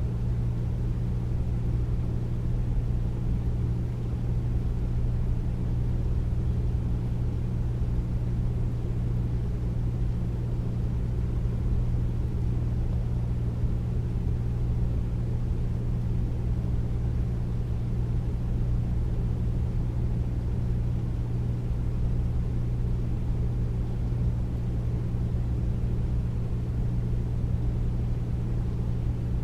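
Air conditioner running steadily with a deep, even hum and rumble and a fainter airy hiss above it.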